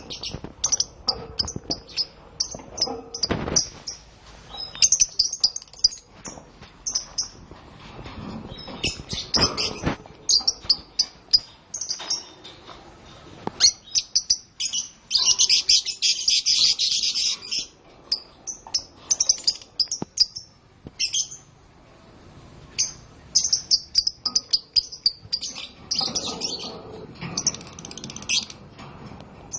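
Canaries singing and chirping in short bursts of high notes, with one long rapid trill about halfway through.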